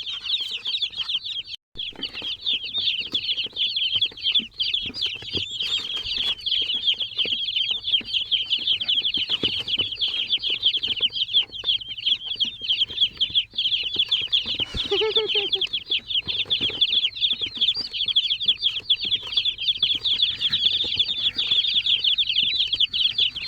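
A crowd of day-old chicks and turkey poults peeping all at once, a dense, continuous high-pitched chorus of short chirps. A single lower call rises and falls about fifteen seconds in.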